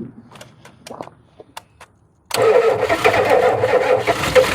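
A few light clicks, then about two seconds in a Ford diesel truck engine is suddenly turned over by the starter on a cold start, loud and continuing to the end.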